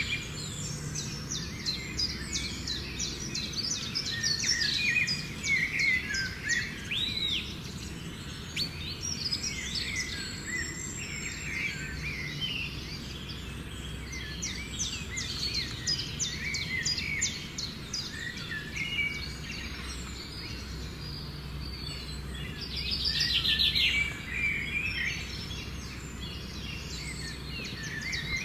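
Many small birds chirping and trilling at once, calls overlapping continuously, with a brief fast rattling trill near the end and a steady low background rumble underneath.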